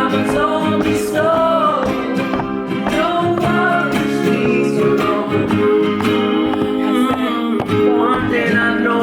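Live song: an acoustic guitar strummed steadily, with a man's voice singing a gliding melody over it.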